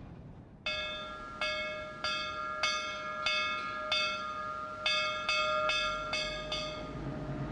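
A metal bell struck about a dozen times at roughly two strikes a second, each strike ringing on at the same pitch until the next. The strikes stop near the end.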